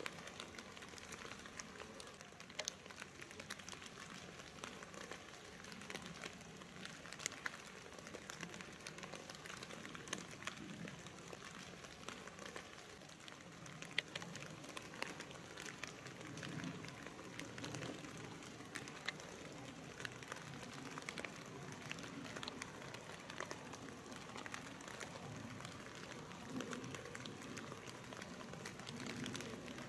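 Faint outdoor field recording: a steady crackling hiss with many small clicks and ticks, and some faint low sounds in the second half.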